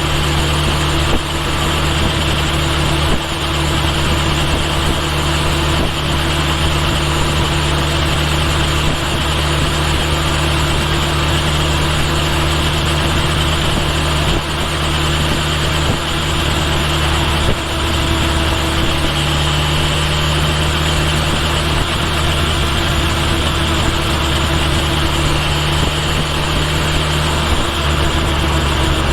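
Kawasaki Ninja H2 SX's supercharged inline-four engine running at a steady engine speed, with a few small shifts in its note, picked up by a microphone mounted near the right rear turn signal.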